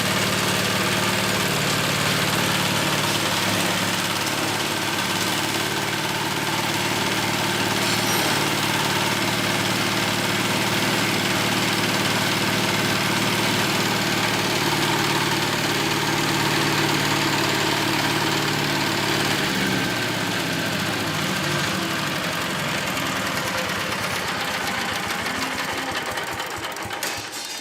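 Fuel-engine-driven organic-waste chopper machine running steadily. About twenty seconds in its note drops and it slows, and the sound falls away near the end.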